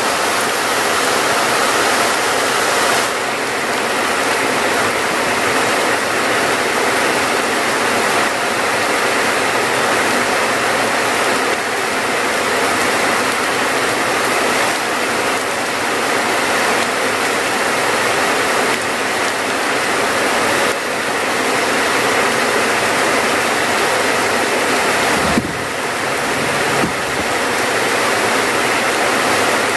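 Steady rainfall, an even rushing hiss, with a brief low thump about 25 seconds in.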